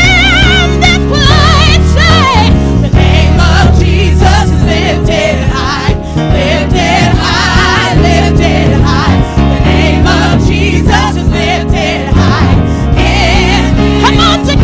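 Gospel praise-and-worship music: voices singing with vibrato over a band with a heavy, sustained bass and drums.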